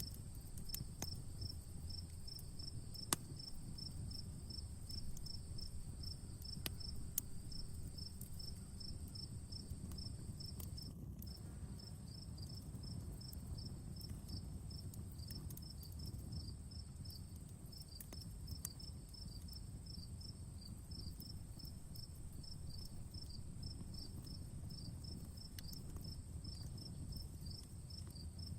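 Outdoor wood fire burning with a low steady rustle and sharp crackles and pops every few seconds. Crickets chirp steadily over it, at about four pulses a second, with a continuous high insect trill.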